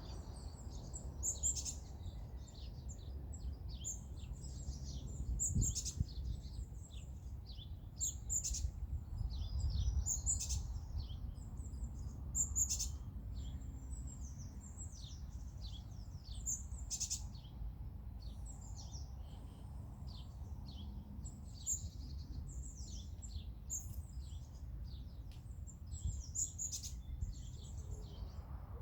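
Several songbirds singing, with a dense run of short chirps and quick trills overlapping one another throughout, over a steady low background rumble.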